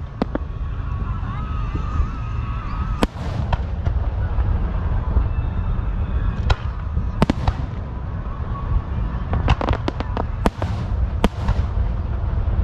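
Fireworks going off in the air: sharp bangs at irregular intervals, several of them followed by crackling, with a quick run of about five bangs past the middle. A steady low rumble runs underneath.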